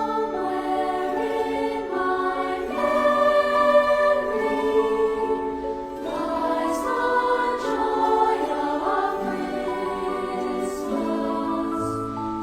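Choral music: a choir singing slow, held notes in harmony.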